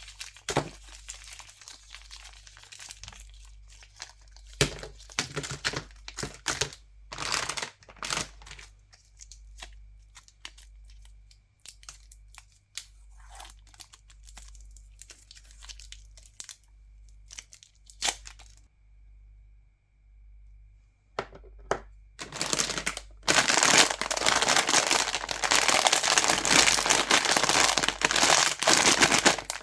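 Candy wrappers being crinkled and torn open close to the microphone. Scattered crackles and rips at first, then dense, louder crinkling over roughly the last six seconds.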